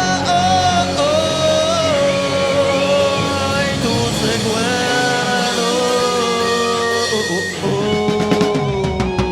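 Rock band playing live, with held, slowly shifting melody notes from lead guitar or voice over the band.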